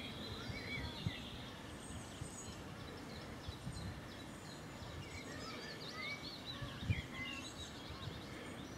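Several small birds chirping and singing, with a rapid warbling trill near the middle, over a low steady outdoor rumble. A single soft thump comes about seven seconds in.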